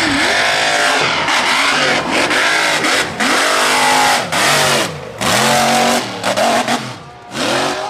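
A mega mud truck's engine revving hard, its pitch climbing and dropping again and again as the throttle works through the run. A dense noisy rush lies under the engine, and the sound briefly falls away a few times near the end.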